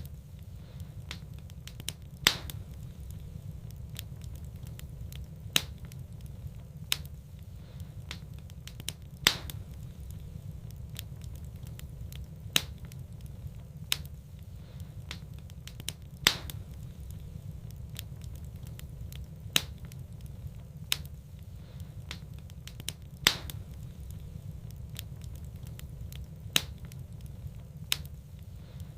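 Wood fire burning in a fireplace: irregular sharp crackles and pops every second or two over a steady low rumble.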